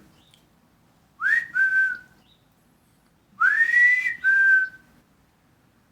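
A person whistling twice to call a bird, each time a two-note call: a quick upward slide to a high note, then a slightly lower note held briefly.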